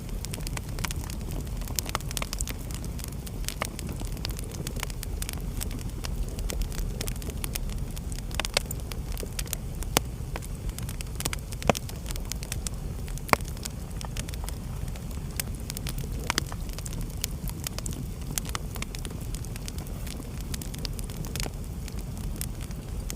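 Wood fire burning in a fireplace: a steady low rumble of flames with scattered crackles and a few sharper pops.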